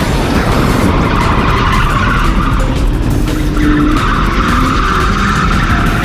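Ford AU Falcon drift car sliding under power, its engine running hard while the tyres skid. The tyre noise eases briefly about three seconds in, then returns.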